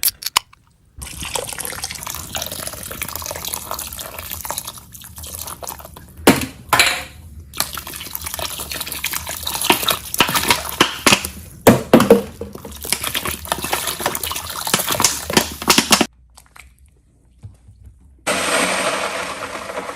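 Toilet flushing: water rushing and splashing in the bowl with many sharp knocks and splashes, stopping abruptly about sixteen seconds in. A steadier rush of water starts again about two seconds later.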